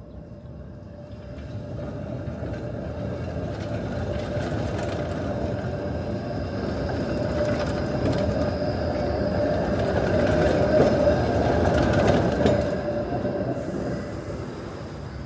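Helsinki tram running on its rails, getting steadily louder to a peak about eleven seconds in and then fading, with a steady whining tone over the rumble of the wheels.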